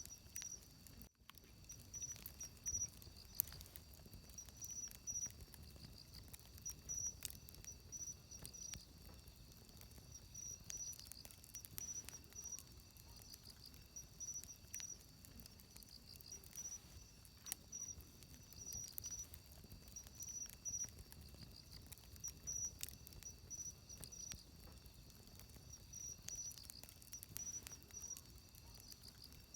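Wood fire crackling with scattered sharp pops, the loudest a few seconds in, over insects chirping in repeated high trills.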